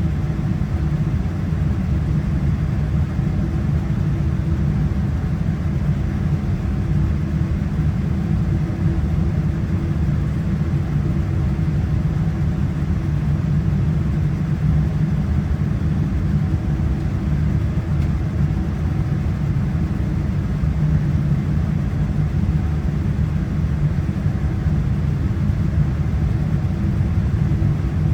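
Boeing 787-9 cabin noise: the engines running with a steady low rumble and a faint even hum.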